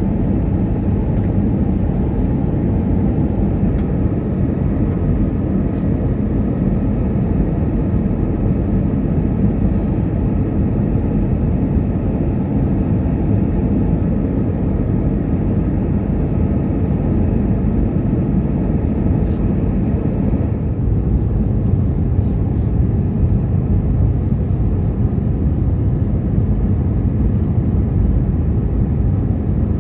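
Steady cabin noise inside an Airbus A320 during descent: the drone of the engines and the rush of air past the fuselage. The higher hiss eases slightly about two-thirds of the way through.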